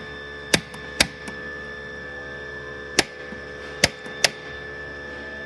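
Spark igniter of an RV absorption refrigerator's propane burner snapping as it tries to light the gas: five sharp clicks at uneven intervals, over a steady electrical hum.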